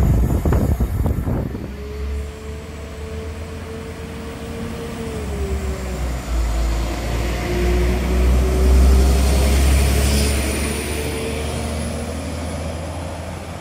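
Train running with a deep engine rumble and a steady whine that dips about five seconds in and then slowly climbs. Quick clicks of wheels over rail joints open it.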